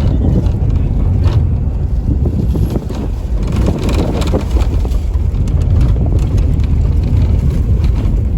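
Steady low rumble of wind buffeting the microphone, with a few faint knocks.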